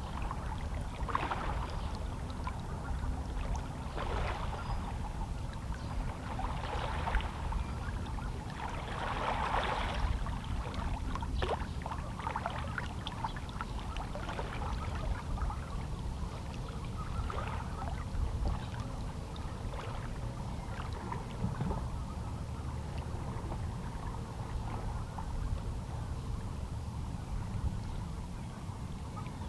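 Small, calm sea waves lapping and splashing irregularly against shoreline rocks over a steady low rumble of the sea, the splashes thinning out in the second half.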